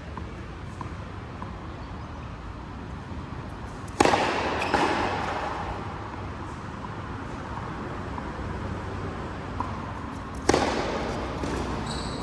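Two sharp, loud impacts about six and a half seconds apart, each trailing off slowly over a second or more.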